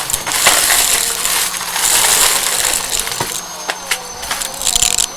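Vacuum cleaner running with a steady high whine, its rushing airflow swelling and fading as it is pushed quickly back and forth. Scattered clicks and rattles come through as small debris is picked up.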